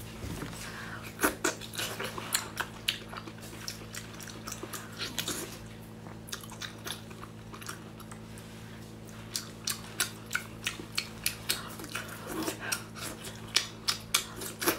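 Close-miked chewing and biting of braised octopus: wet clicking mouth sounds that come in quick runs, thickest in the last few seconds, over a steady low hum.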